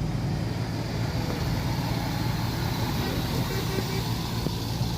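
Truck tractor's diesel engine running steadily, a low even rumble with no revving.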